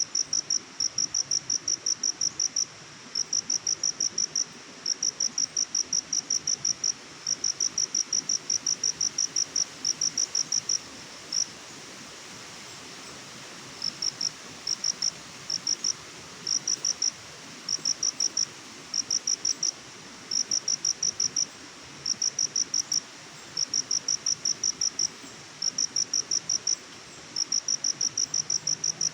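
A cricket chirping: rapid high-pitched pulses in runs of a second or two, with a pause of about three seconds near the middle, over a faint steady hiss.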